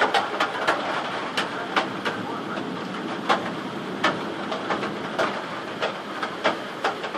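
Heavy rain in a thunderstorm: a steady hiss of downpour with irregular sharp taps of drops striking a hard surface.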